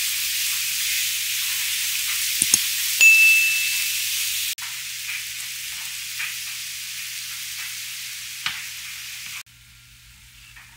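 Diced chicken breast, onion, green pepper and mushrooms sizzling in olive oil in a frying pan while being stirred. About three seconds in there is a sharp clink with a brief ringing tone. The sizzle then continues quieter with small crackles, and drops lower again near the end.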